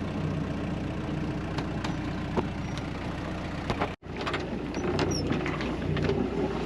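A steady low engine hum with scattered clicks and knocks. The sound drops out for an instant about four seconds in.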